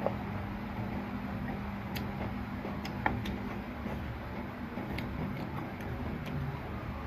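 Eating utensils clicking against a bowl of soup: a few sharp, light clicks spread through, one with a brief ring, over a steady low hum.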